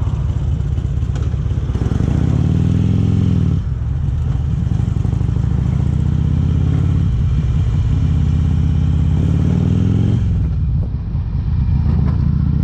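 2008 Harley-Davidson Electra Glide's V-twin through Vance & Hines exhaust pipes, running under way. The engine note climbs about two seconds in and breaks off briefly near four seconds, as at a gear change. It then holds steady, rises again and drops away about ten seconds in.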